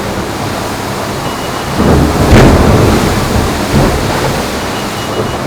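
Wind buffeting the microphone and water rushing past an IMOCA ocean-racing yacht sailing at speed, with a louder surge and a sharp crack about two seconds in.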